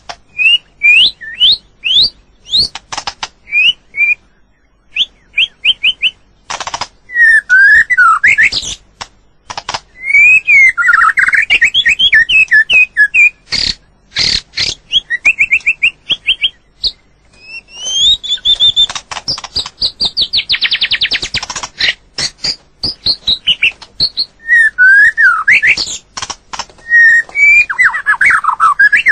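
White-rumped shama singing: a varied run of loud, fast phrases of rising and falling whistles mixed with rapid clicking rattles, with a long fast trill about two-thirds of the way through.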